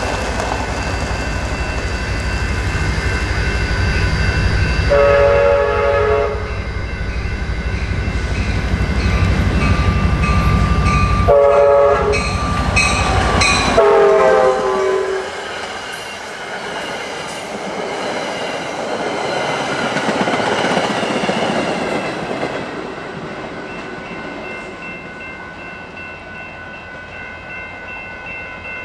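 Amtrak San Joaquin passenger train passing at speed, with a heavy rumble of engine and wheels. Its horn sounds three times: one long blast, then a short one, then a longer one that drops in pitch as it goes by. After the horn the rumble falls off and the train's sound fades slowly.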